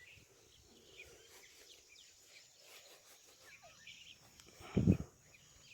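Faint outdoor background of scattered small bird chirps and calls, with one brief low thump near the end.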